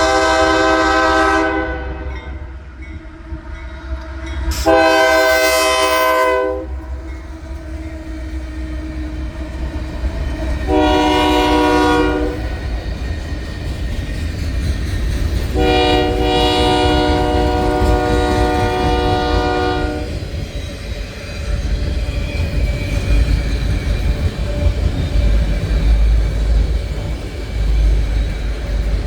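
Freight train's multi-chime diesel locomotive air horn: the tail of one blast, then a blast about five seconds in, a short one about eleven seconds in, and a long one from about sixteen to twenty seconds. Underneath, the train runs by with a steady low rumble and some wheel clatter.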